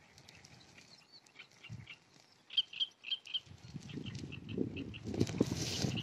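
Small birds chirping, with a run of short high notes about two and a half seconds in. From about four seconds in, wind gusts across the microphone in a rising low rumble.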